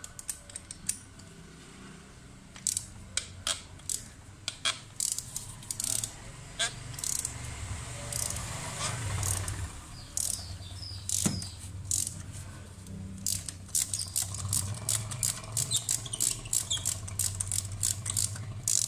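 Hand tools clicking and clinking as a spark plug is taken out of the engine, with quick runs of ratchet-like clicks in the last few seconds. A steady low hum sits underneath.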